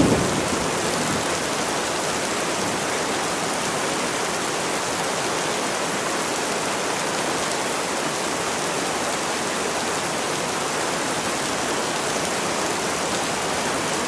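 Steady rain, an even hiss without single drops standing out, as the tail of a thunder rumble dies away at the very start.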